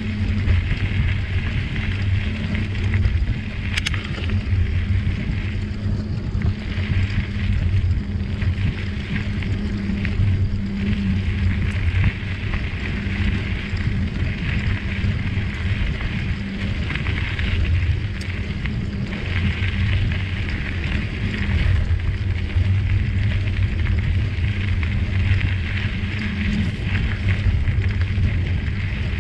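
Riding noise from a moving bicycle: wind buffeting the microphone under a steady hiss of tyres rolling on a trail, with a single sharp click about four seconds in.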